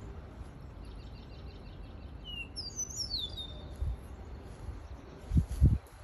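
A songbird sings a short, fast phrase of sliding high notes, after a quick run of fainter high notes, over a low rumble. Near the end come a few loud low thumps.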